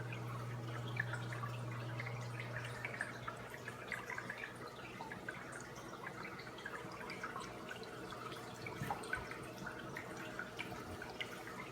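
Water trickling and dripping from a small paludarium waterfall: a steady patter of many small splashes. A low hum fades out about three seconds in.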